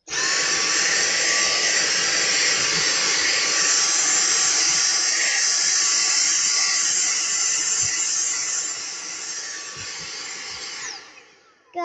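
Vacuum cleaner switched on, its motor spinning up to a loud steady whine and rush of air, running a little quieter from about three quarters of the way through, then switched off, the whine falling as the motor winds down near the end.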